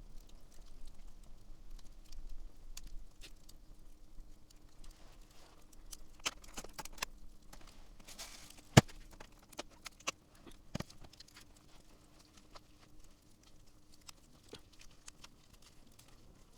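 Wood campfire crackling with scattered small pops and one sharp, loud pop about nine seconds in.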